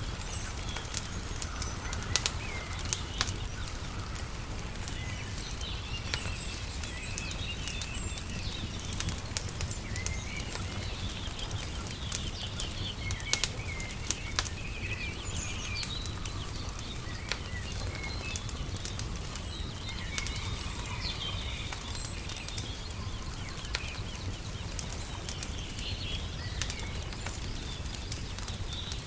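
Wood fire crackling with frequent sharp pops, over small birds chirping and a steady low rumble.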